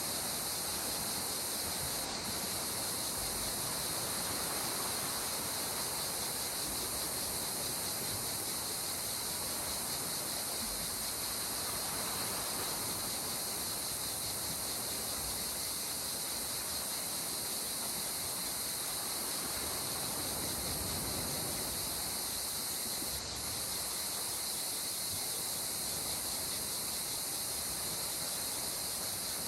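Steady hiss of gentle sea water washing along the shore, under a constant high-pitched chorus of insects.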